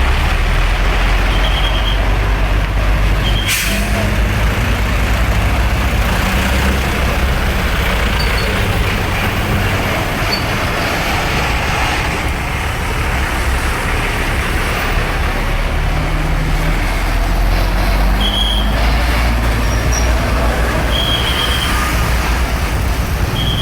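Heavy trucks passing on a highway: a steady low rumble of diesel engines and tyre noise, with a brief sharp air-brake hiss about three and a half seconds in and short high beeps several times.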